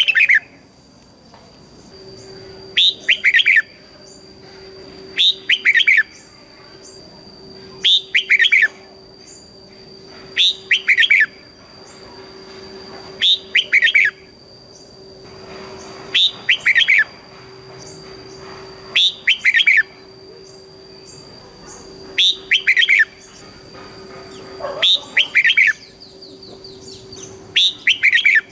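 Red-whiskered bulbul singing: a short, loud warbled phrase of a few quick notes, repeated about every two and a half to three seconds, about ten times.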